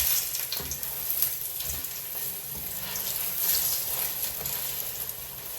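Syrniki (cottage-cheese pancakes) sizzling in oil in a frying pan, a steady hiss with small crackles; the pan is very hot.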